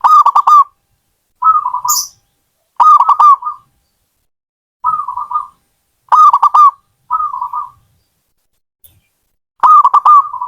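Zebra dove (perkutut) cooing: seven short phrases of quick rolling notes, each under a second long, with brief pauses between them.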